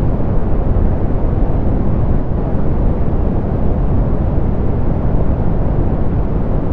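Soft pink noise, a steady hiss with its energy weighted toward the low end and little in the highs.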